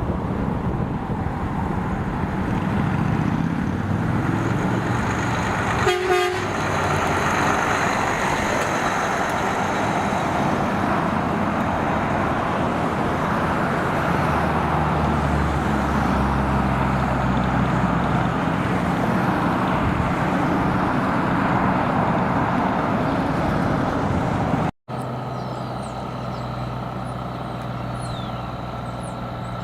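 Heavy truck engine and road noise running steadily, with a short horn toot about six seconds in. After a brief dropout near the end, a steadier lower engine hum takes over.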